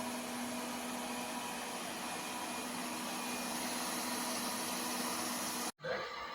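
Lefant M1 robot vacuum running: a steady suction whir with a constant hum and whine in it, which cuts off suddenly near the end.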